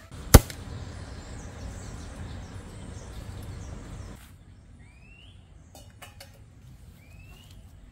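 A single sharp click just after the start, then a steady hiss that stops abruptly about four seconds in. After that, a bird repeats a short rising whistle three times, with a few faint clicks.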